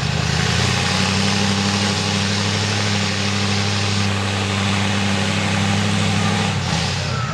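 V8 mega mud truck with open headers, its engine held at steady high revs under load with a loud hiss over it. The engine note steps up about a second in and drops back shortly before the end.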